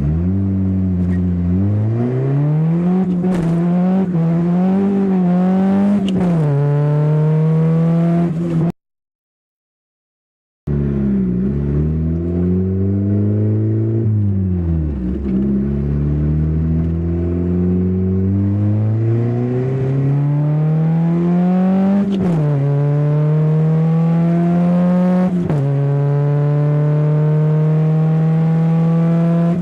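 Turbocharged Honda D15B2 1.5-litre four-cylinder in a 1990 CRX accelerating hard through the gears. The revs climb steadily and drop sharply at each shift, several times over. There is a break of about two seconds of total silence partway through.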